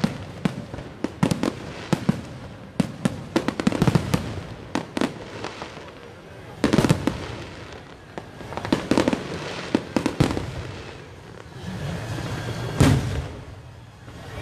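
Aerial fireworks going off: a rapid run of sharp cracks through the first few seconds, then a few single, louder bangs spaced a second or two apart, the loudest about 13 seconds in.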